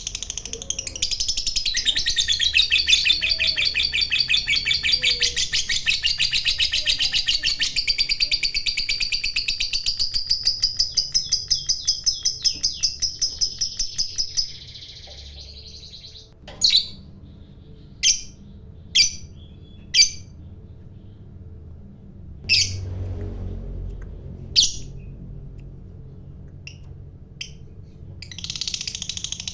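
Lovebird giving a long 'ngekek' song: a rapid, unbroken chattering trill lasting about fourteen seconds. It is followed by a string of short, single sharp chirps a second or two apart, and the chattering starts again near the end.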